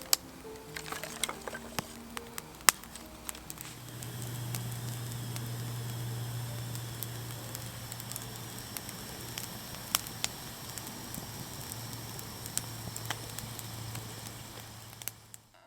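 Wood campfire crackling, with scattered sharp pops and a steady low drone underneath from about four seconds in. The last notes of background music play over the first few seconds, and the sound cuts off just before the end.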